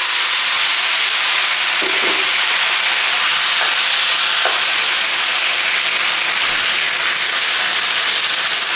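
Marinated chicken thigh pieces frying in hot olive oil in a wok, a loud steady sizzle, while a wooden spatula stirs them.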